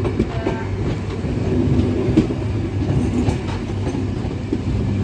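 Passenger train running, heard from on board: a steady low rumble with scattered clicks and clacks of the wheels over the track.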